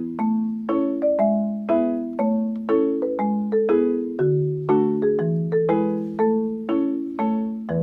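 Background music: a light, bouncy mallet-percussion tune, marimba-like, with notes struck about twice a second over a lower repeating bass line.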